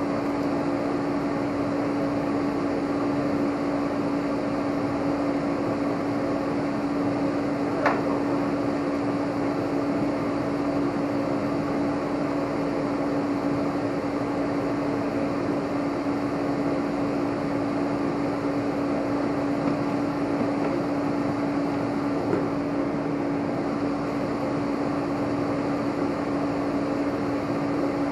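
A steady machine hum with one strong constant tone, like a fan or blower running, with a single sharp click about eight seconds in.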